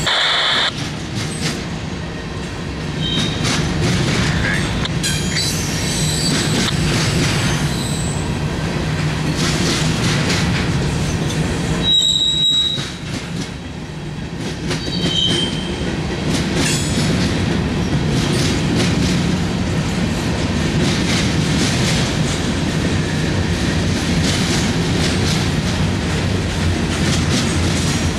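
Freight train of covered hoppers and tank cars rolling past: a steady rumble of steel wheels on rail with clicks over the rail joints and a few brief high-pitched wheel squeals.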